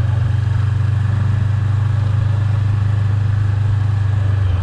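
Car engine and road noise while driving: a steady low drone with a hiss over it.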